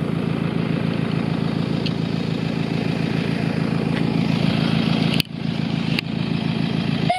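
A vehicle engine running steadily with an even, rapid pulse, with a brief dip in level about five seconds in.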